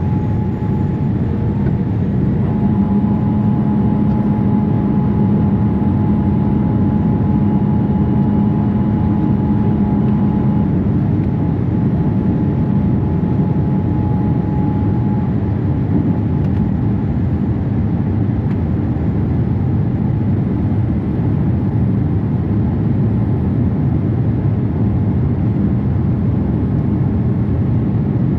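Steady cabin noise of an ANA Boeing 787-8 airliner under way: engine and airflow rumble, with a steady hum and a higher tone that stop partway through.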